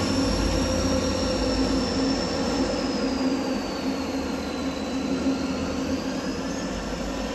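Train running at low speed with a steady rumble and a thin high wheel squeal that sags in pitch partway through and rises again near the end.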